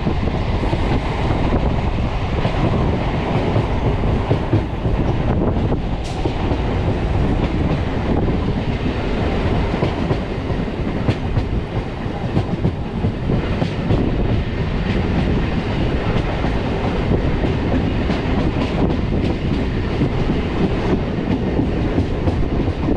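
Electric multiple unit (EMU) local train running at speed, its wheels rumbling and clacking over the rails, heard from outside the coach with the air rushing past.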